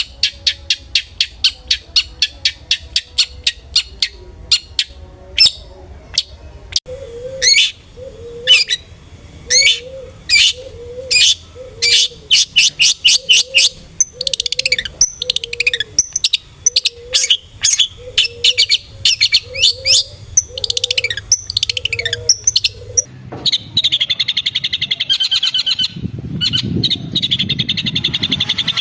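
Long-tailed shrike (cendet) song: fast runs of sharp, high chirps, with a lower note repeating about once a second beneath from about seven seconds in. Near the end it turns into a dense, rapid twitter.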